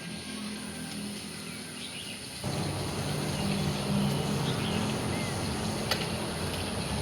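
Outdoor ambience: a steady low motor-like hum under a general noise that grows louder about two and a half seconds in. Birds chirp a few times over it, with a steady high-pitched whine, like insects, throughout.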